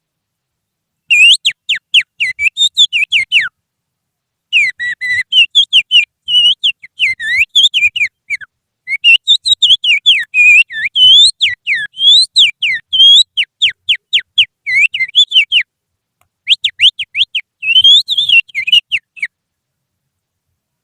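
Human finger whistling, with the little finger, imitating the song of an oriental magpie-robin (kacer): rapid runs of sharp whistled notes, many sliding downward, in four phrases with short pauses between them. It stops shortly before the end.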